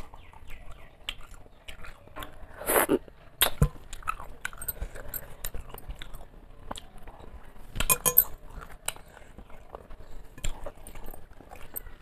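Close-up chewing and wet mouth sounds of a person eating rice and fish curry by hand: a run of small smacks and clicks, with a louder noisy burst about three seconds in and another around eight seconds.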